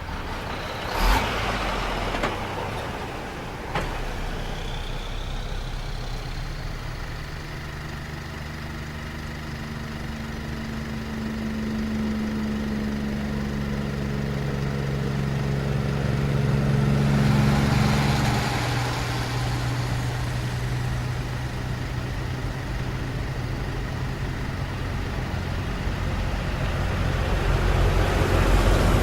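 Heavy truck engines running steadily, with a vehicle going by past the middle. There is a sharp knock about a second in and another near four seconds.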